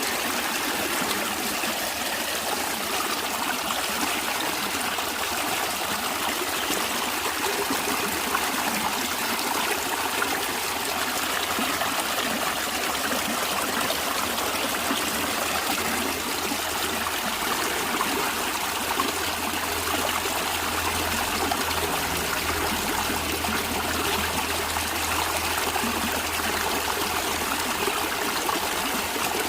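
A stream of water running and trickling steadily.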